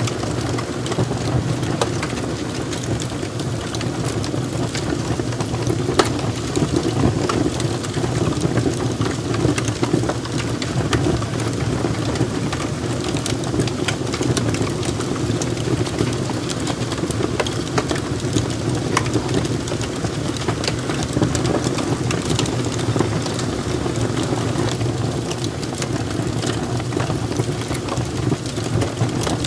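Log fire in a fireplace burning, a steady low rush of flame with frequent sharp crackles and pops from the logs, one louder pop about six seconds in.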